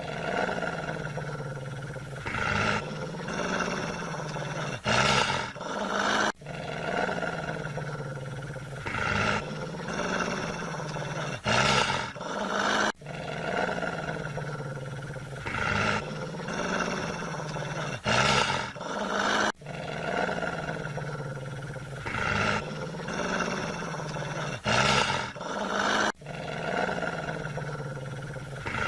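An animal growling and roaring sound effect played as a loop, the same phrase coming round about every six and a half seconds, each pass peaking in a louder burst.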